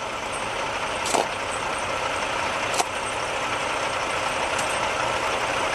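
A vehicle's engine running steadily under an even rushing noise, with a few faint clicks.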